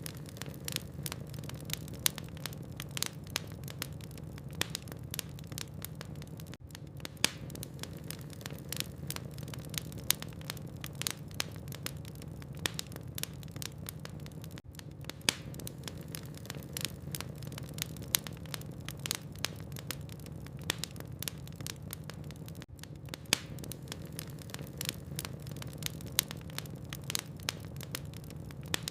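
Logs burning in a fireplace, crackling: frequent irregular sharp pops and snaps over a steady low rumble of the fire.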